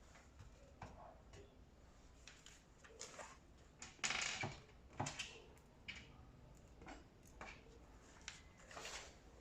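Scattered light clicks and knocks of dryer parts and tools being handled during assembly, with a louder clatter about four seconds in and another knock a second later.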